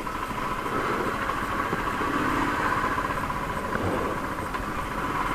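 A Royal Enfield Thunderbird 350's single-cylinder engine running steadily with an even, rapid beat.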